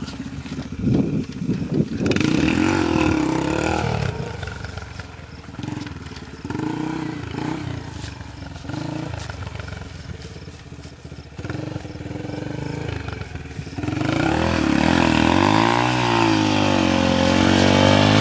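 Yamaha TTR125 dirt bike's single-cylinder four-stroke engine revving up and down as the throttle is opened and closed while riding. It grows louder about three-quarters of the way through, with the pitch swinging widely.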